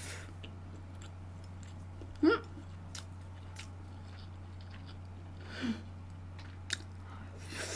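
Soft chewing and mouth sounds of a person eating spicy braised pork ribs, with a few faint clicks. There is a short voiced sound a little over two seconds in, over a steady low hum.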